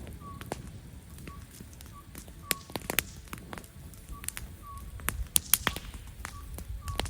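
Wood campfire crackling, with irregular sharp pops over a low rumble of burning; a quick run of louder pops comes about five seconds in.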